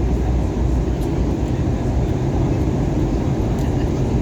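Steady low cabin roar of an Airbus A321neo airliner descending toward landing: engine and airflow noise heard from inside the passenger cabin.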